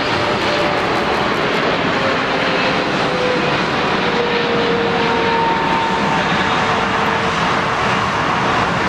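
Jet airliner engines passing with a steady, loud rush, a few faint tones in it sliding slowly down in pitch.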